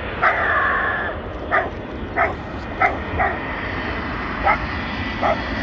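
A small dog yapping about seven times at uneven intervals, the first yap drawn out like a whine, over a steady background rumble.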